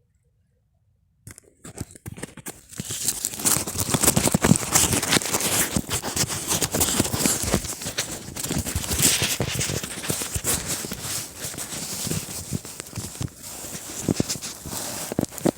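Continuous close rustling and crackling, full of small snaps and clicks, starting suddenly about a second in.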